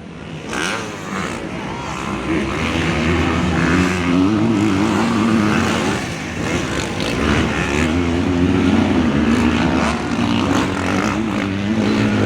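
Motocross bike engines running and revving, their pitch repeatedly rising and falling as the throttle is worked, getting louder after about two seconds.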